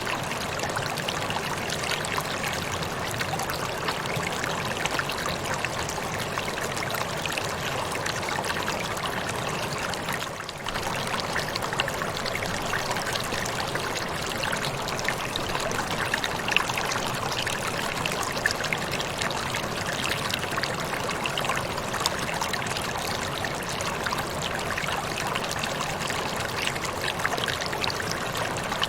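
Waterfall: a steady rush of falling water with small splashes scattered through it, dipping briefly about a third of the way through.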